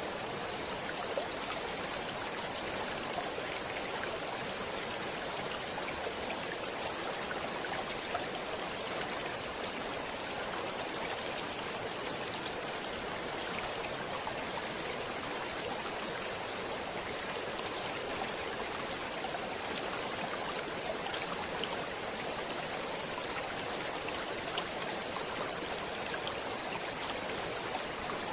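Stream water flowing steadily over rocks, a continuous rushing with small trickles and splashes.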